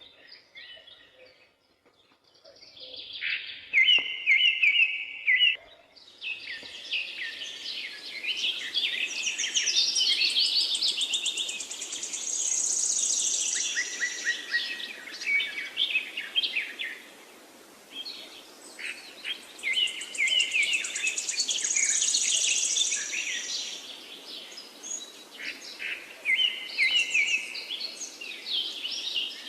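Several songbirds singing over one another: chirps, trills and quick runs of repeated notes. It starts sparse and grows into a dense chorus a few seconds in, with a faint steady hiss underneath.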